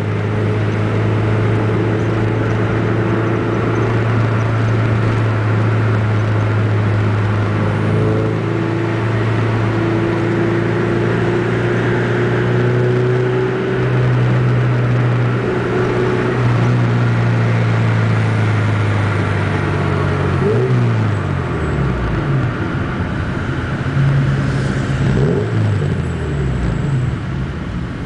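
Ford Zetec four-cylinder engine with a four-into-one exhaust header, running loud while the car drives. It holds steady revs for most of the time. About two-thirds through, the revs drop, pick up briefly and fall again before it settles back to steady running.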